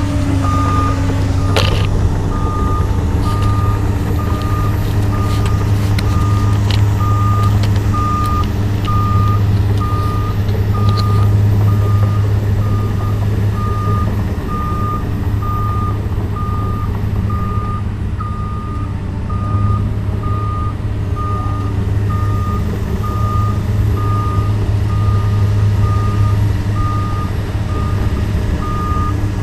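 Komatsu PC200 excavator's diesel engine running steadily while its travel alarm beeps at an even pace, a bit faster than once a second, as the machine tracks. A sharp knock comes about one and a half seconds in.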